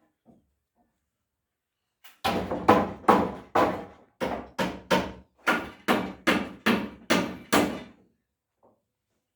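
Hammer blows knocking on concrete shuttering (formwork) to strip it: a rapid, even run of about fourteen heavy knocks, about two and a half a second, starting about two seconds in and stopping about two seconds before the end.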